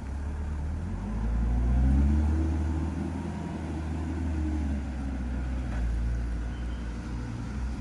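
Hino 500 dump truck's diesel engine revving up about a second in, then running on at a steady, raised speed.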